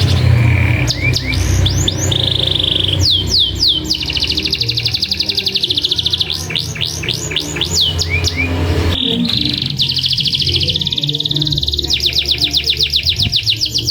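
Domestic canary singing: long, very fast trills (rolls) broken by runs of quick downward-sweeping whistled notes. A steady low hum lies under the song.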